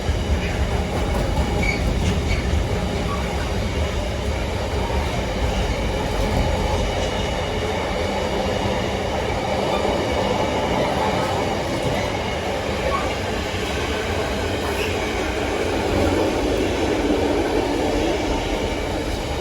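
Intermodal container freight train rolling past: a steady heavy rumble of wheels on the rails with a faint, high wheel squeal and occasional clicks.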